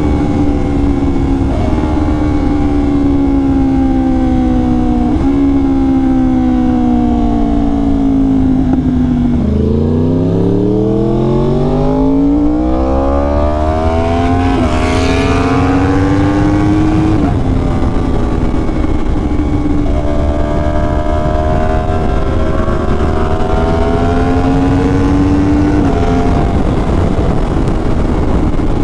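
Yamaha R1 crossplane inline-four through an SC Project exhaust, under way. Revs fall slowly with a few downshifts for the first several seconds. About ten seconds in it pulls hard, revs climbing steeply through quick upshifts, then it settles into cruising with smaller rises and falls and another gear change near the end, with wind noise underneath.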